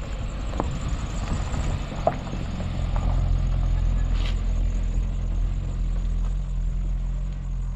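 A car engine running at low speed as the car rolls slowly past on a dirt track and pulls away; the steady hum is loudest midway and fades toward the end.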